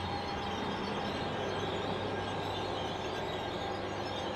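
Bombardier ALP-45DP locomotive passing with a commuter train, a steady rumble of wheels on rail. A low engine hum fades about a second in as the locomotive goes by.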